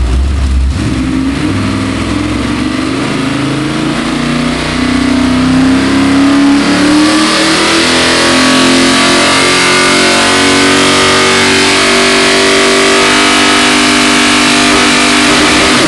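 Ford 351 Windsor V8 crate engine, carburetted, running on a test stand. Its revs climb steadily over the first six or seven seconds, then hold steady at a higher speed.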